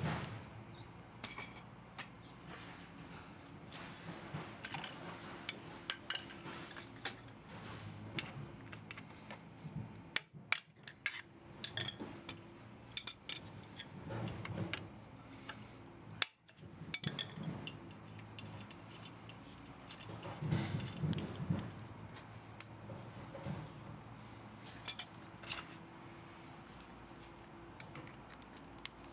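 Hand tools and metal motor parts clinking and knocking irregularly as an electric pump motor is taken apart for scrap metal.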